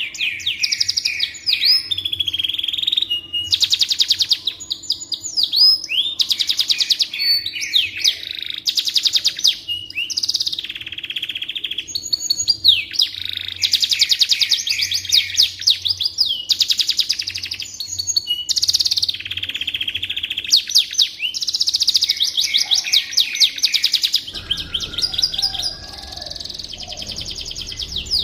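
Domestic canary singing a long, continuous song of rapid, high-pitched trills and rolls, changing phrase every second or two.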